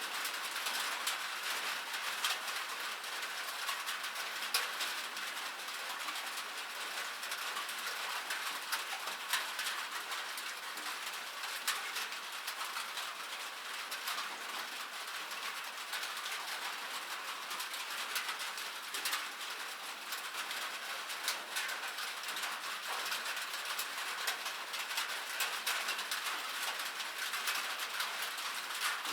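Rain falling on a metal surface: a steady hiss of spray with many sharp little ticks of single drops striking the metal.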